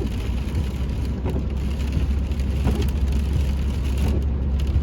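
Steady low rumble of a car driving, heard inside the cabin: engine and tyres on a wet, icy road, with a faint hiss over it.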